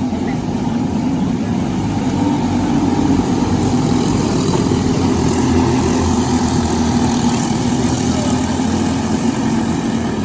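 Briggs & Stratton LO206 single-cylinder four-stroke kart engine running steadily, with small swells in level.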